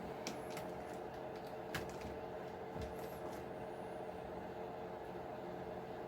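A steady background hum with a handful of light clicks and taps as plastic RC truck parts are handled and pulled apart.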